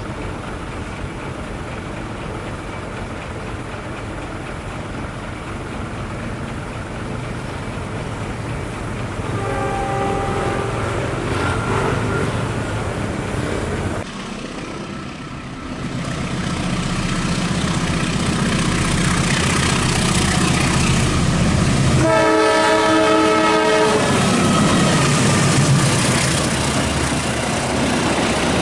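Train passing at speed, with its rumble and wheel noise, sounding its multi-tone horn about a third of the way in. After a break, a louder pass builds, with a longer horn blast about three-quarters through.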